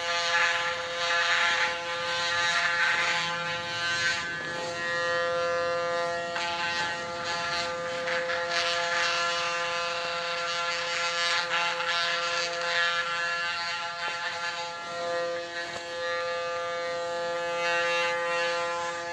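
Electric hair clipper set to 0.8 mm buzzing steadily as it shaves a head close, its sound wavering as it is moved over the scalp.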